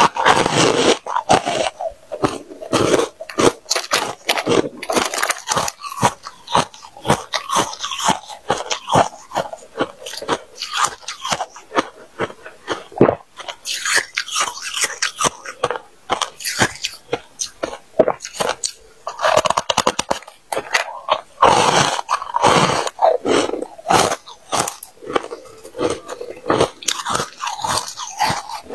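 A person biting and chewing freezer frost: dense, loud crunching of packed ice with many sharp cracks, continuing with brief pauses.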